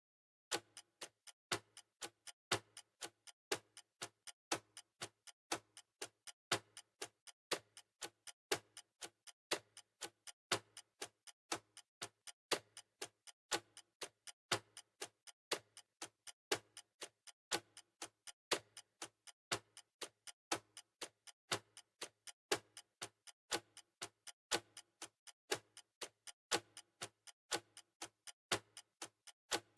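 Steady, even ticking, several ticks a second, some ticks louder than others, like a clock.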